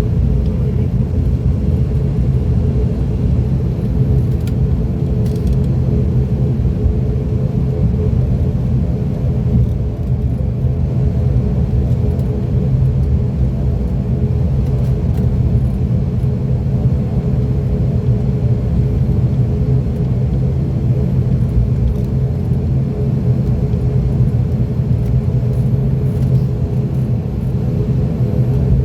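Cabin of an ATR 42-600 filled with the steady, loud low drone of its Pratt & Whitney PW127 turboprop engines and propellers, with a hum of several level tones.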